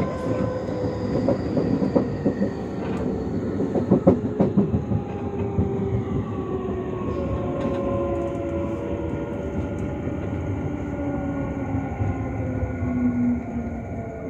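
Electric commuter train slowing into a station, heard from inside the car: its motor whine slides steadily down in pitch. The wheels clack sharply over rail joints in the first few seconds.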